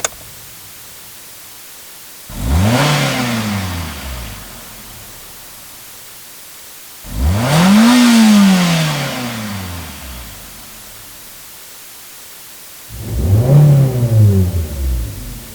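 Passenger car engine revved three times, each rev climbing quickly in pitch and then falling back over about two seconds, with a low steady hiss between the revs.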